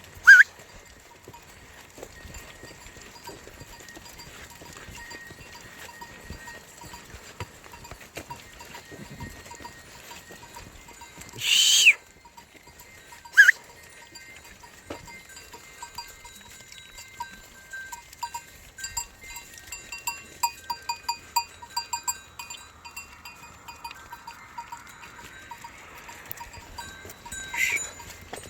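Bells on a grazing sheep flock clinking irregularly, thickest after the middle. A few short, loud, high-pitched calls cut through, about a second in and twice around twelve to thirteen seconds.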